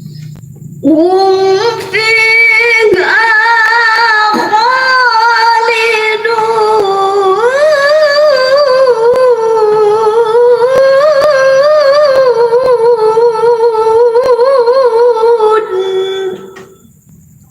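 A woman reciting the Qur'an in the melodic tilawah style: one long, unbroken, ornamented phrase with a wavering pitch. It begins about a second in and breaks off near the end for a breath.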